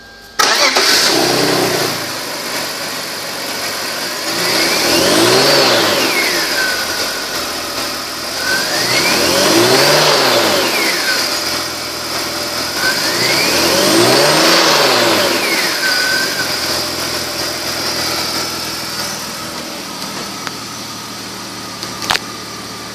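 2002 BMW 325xi's 2.5-litre inline-six starting up about half a second in and idling. It is then revved three times, each rev rising and falling over about two seconds, and settles back to idle.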